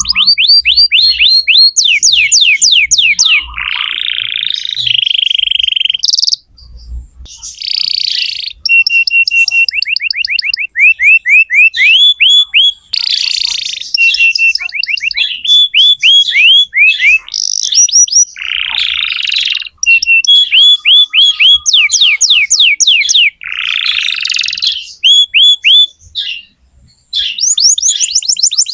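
Domestic canary singing loudly in fast rolling trills of rapidly repeated down-sweeping notes, switching between phrases every second or two, with some harsher buzzy passages between them. This is the kind of energetic canary song played to young canaries to teach them.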